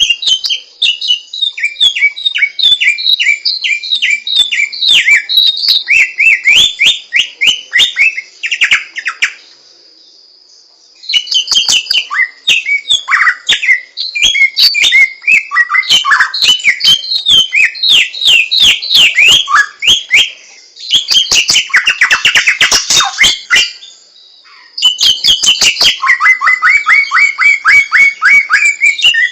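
Samyong songbird singing loud, rapid phrases of sharp down-slurred chirps, breaking off twice for about a second.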